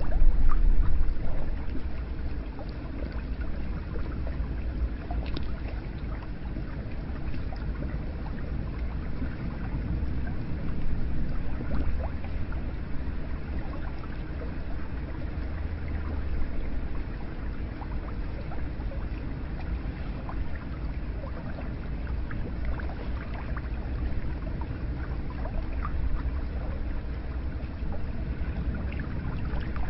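Hot spring water flowing and splashing, a steady low rush with small scattered drips and trickles, a little louder in the first second or so.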